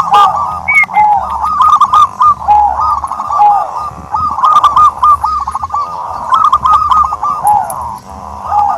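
Several turtledoves cooing together: dense, overlapping runs of short arched notes with no real pause.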